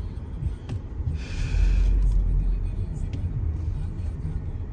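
Steady low rumble of a road vehicle, with a louder hiss starting about a second in and lasting about a second.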